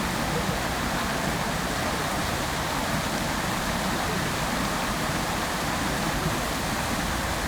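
Outdoor fountain's water jets falling and splashing into the basin, a steady, even rushing of water.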